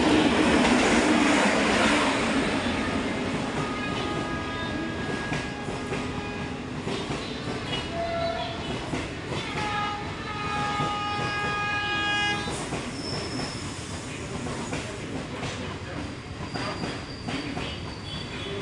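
Passenger train hauled by an electric locomotive pulling into a station. The locomotive is loudest as it passes close beneath at the start, then the coaches roll by as the train slows, with rumble and clatter. High squeals come and go, each held for a second or two, most of them in the middle.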